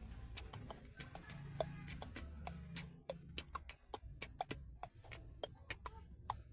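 Beatboxing by mouth: a quick, irregular run of sharp clicks and pops, a few every second.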